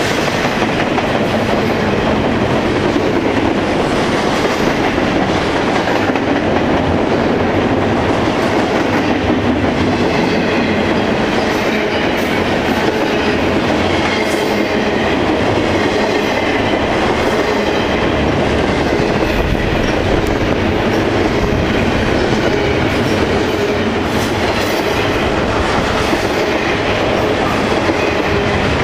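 Double-stack intermodal freight cars rolling steadily past, their steel wheels clicking over the rail joints.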